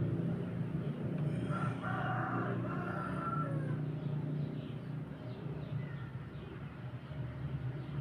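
A rooster crows once, a call of about two seconds, over a steady low hum.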